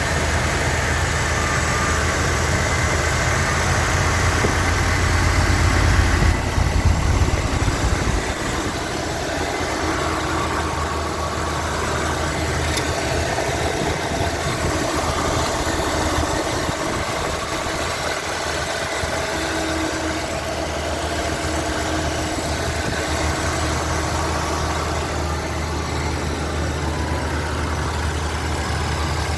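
A Lincoln Continental's V8 engine idling steadily. It runs a little louder for the first several seconds, then settles to an even idle about eight seconds in.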